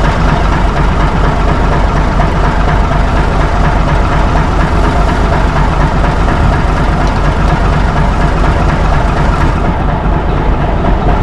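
A heavy engine idling loudly and steadily.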